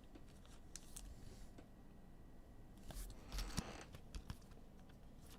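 Trading cards being handled and flipped through: faint scattered clicks, with a brief cluster of rustling about three seconds in.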